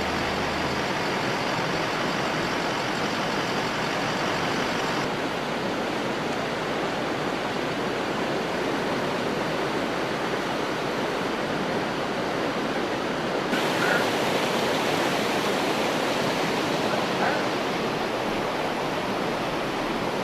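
Steady rushing noise of fast-flowing floodwater, changing abruptly in character about five seconds in and again about thirteen seconds in.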